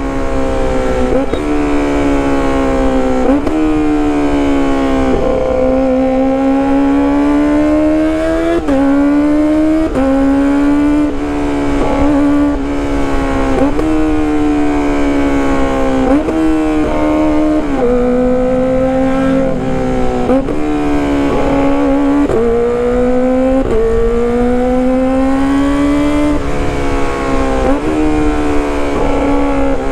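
Kawasaki ZX-25RR's high-revving inline-four engine being ridden hard through a loud exhaust, its pitch climbing and dropping sharply at frequent gear changes.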